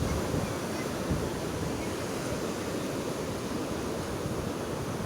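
Sea of Azov surf: waves rolling in and breaking in a steady rush of water, with some wind.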